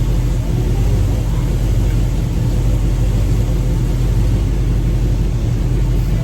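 Chevelle's engine running with a steady, loud low rumble that stays even throughout.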